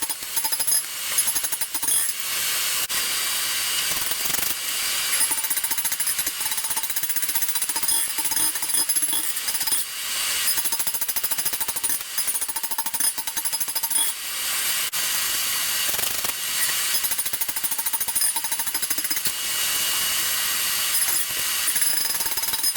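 Rapid, continuous metal hammering while forging steel, with brief breaks every few seconds.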